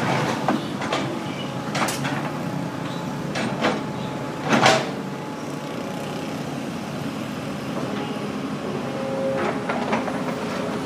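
Diesel engine running steadily under several sharp clanks and knocks, the loudest about four and a half seconds in.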